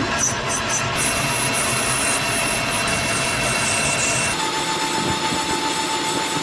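A workshop power tool running steadily as it works metal handle parts, its tone changing abruptly about a second in and again past four seconds.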